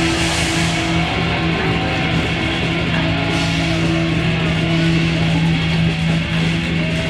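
Loud live grindcore music: distorted electric guitar holding a steady, droning low note over a dense wash of noise.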